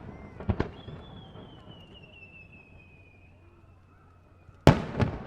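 Fireworks display: a couple of sharp pops about half a second in, a long thin high whistle that falls slowly, then a loud sharp burst near the end followed by smaller crackles.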